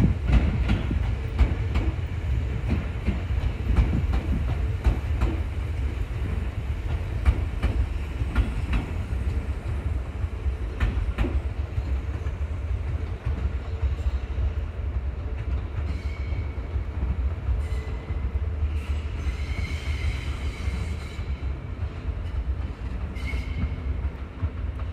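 Seibu Railway electric train running along the tracks: a steady low rumble with the clack of wheels over rail joints. A few faint high-pitched wheel squeals come in the second half as the train draws away.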